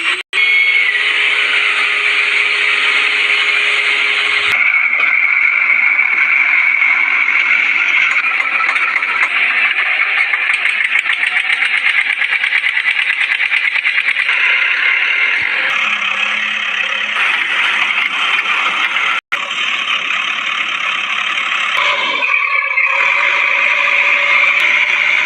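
Engine of a mini truck running steadily, broken by several abrupt cuts between takes.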